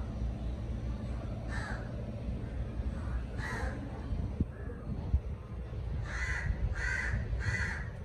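Harsh cawing bird calls: one about one and a half seconds in, another around three and a half seconds, then three in quick succession near the end, about two-thirds of a second apart. A steady low rumble runs underneath.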